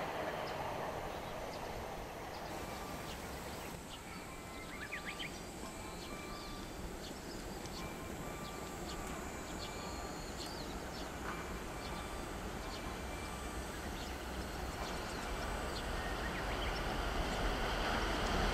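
Running noise of a passing train fades over the first few seconds, leaving a quieter spell with scattered faint chirps. Toward the end the low rumble of the approaching 285-series Sunrise Izumo/Seto sleeper electric train builds steadily.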